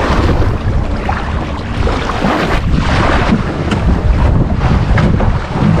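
Strong wind buffeting the microphone, with water splashing and washing underneath in gusty swells.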